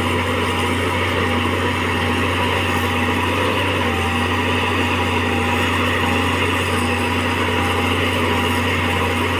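Caterpillar excavator's diesel engine running steadily under load as the machine tries to track out of deep mud; the owner says its travel motors have almost no power.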